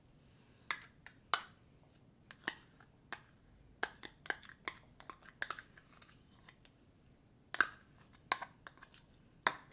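Irregular sharp clicks and taps of a spoon against a measuring cup and bowl as half a cup of white glue is poured and scraped out, the loudest knocks near the end.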